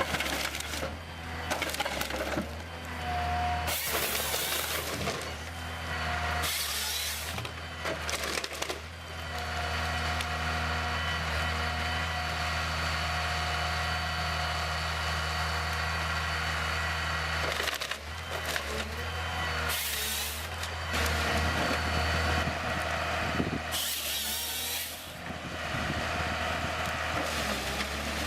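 Heavy wood-handling machinery at work: a machine runs steadily throughout, with several short loud hissing or cracking bursts, one about 4 seconds in, others near 7, 20 and 24 seconds, as wood is handled.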